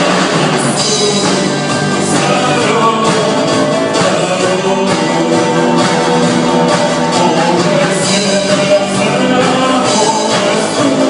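Rock song playing loudly and steadily, with guitars and a singing voice.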